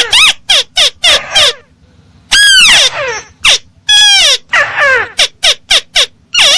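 Bird-lure recording of a crake (burung tikusan) calling: a rapid series of loud, harsh notes that sweep downward in pitch, about four or five a second. There is a short pause around two seconds in, and a few longer slurred notes come after it.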